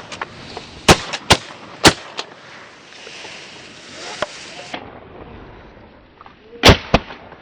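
Shotgun volley from several hunters firing at waterfowl: three loud shots in quick succession about a second in, a lighter one after, then two more shots close together near the end.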